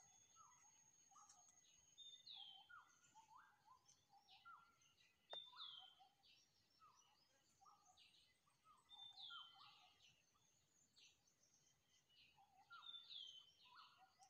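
Birds calling: a steady run of short, low notes several a second, and about every three and a half seconds a higher call that sweeps downward. A single sharp click comes about five seconds in.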